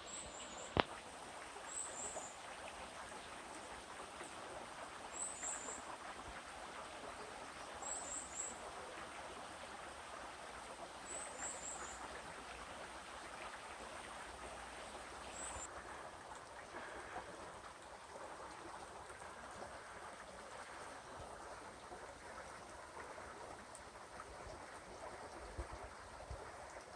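Valley stream flowing steadily over rocks, with a small bird giving short, high chirps in twos and threes every few seconds that stop a little past halfway. A single sharp click comes about a second in.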